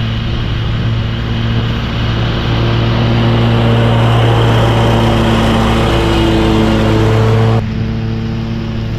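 Commercial lawn mower engine running steadily at working speed while mulching leaves; the sound drops suddenly in level near the end.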